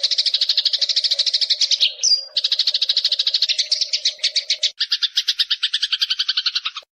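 Eurasian tree sparrow giving a fast, unbroken chatter of short, high chirps at about ten a second. There is a brief break about two seconds in, the notes change pattern near five seconds, and the chatter stops abruptly just before the end.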